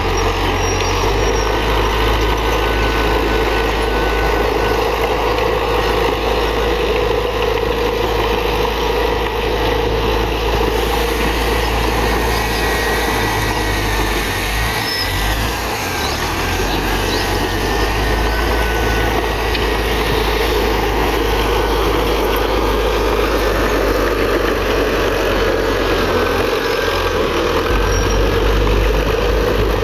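Komatsu D31PX bulldozer's diesel engine running steadily while working, with faint high squeals over the engine noise.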